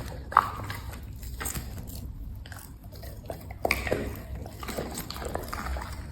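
A dog chewing and biting food, with irregular crunchy, smacking clicks; the sharpest comes about half a second in and a few more near four seconds.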